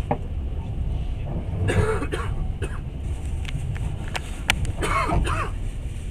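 Steady low rumble of a moving passenger train, with a person coughing about two seconds in and again around five seconds in.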